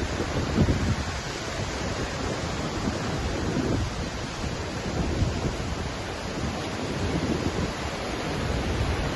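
Waterfall's steady rush of falling water, with an uneven low rumble of wind on the microphone underneath.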